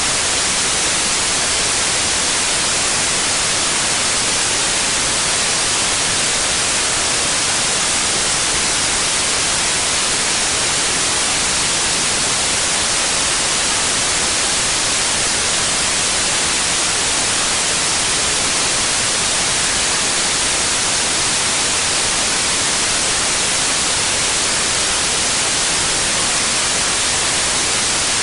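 Synthetic white noise: a steady, even hiss with no changes, brightest in the treble.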